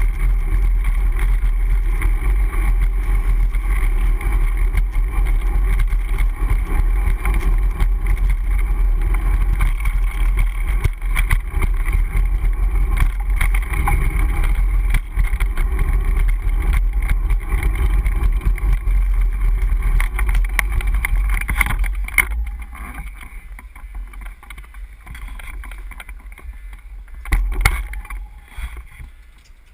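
Wind rushing over the microphone and road rumble from a Brompton folding bicycle being ridden, a steady loud noise. It drops away sharply about 22 seconds in, and one short knock follows near the end.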